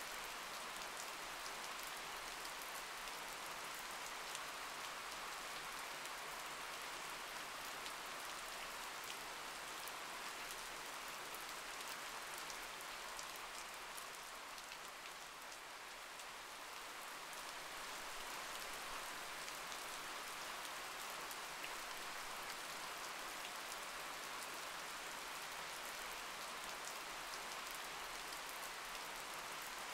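Steady rain: an even hiss with fine ticks of drops.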